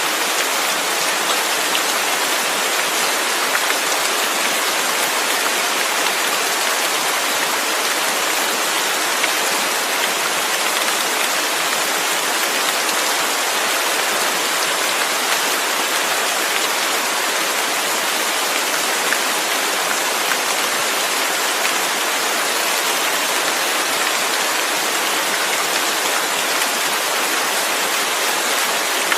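Steady, heavy rain falling: a dense, even hiss of drops with no thunder or other events.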